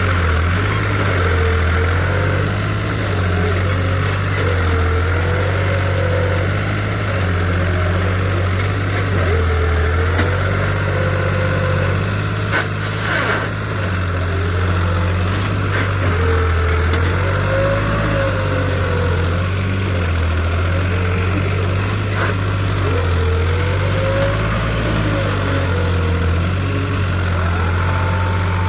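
Four-wheel-drive tractor's diesel engine working hard, its pitch rising and falling every few seconds, as it strains to pull a trolley stuck in a wet, muddy field.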